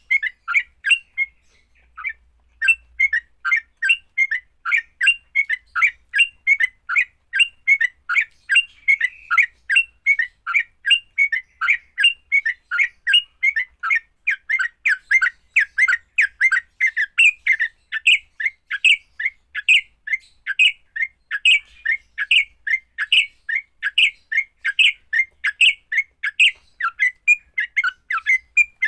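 Yellow-vented bulbul (trucuk) giving its harsh, chattering fighting song: rapid repeated calls, about three a second, with a short break about two seconds in.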